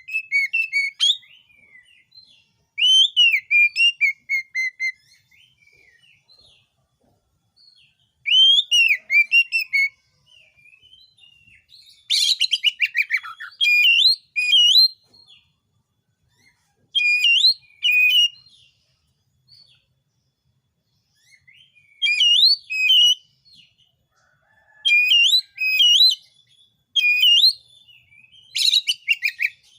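Oriental magpie-robin (kacer) singing vigorously in loud bursts of varied, quickly changing whistled phrases, each a second or two long with short pauses between. A couple of the bursts hold rapid harsh rattling notes.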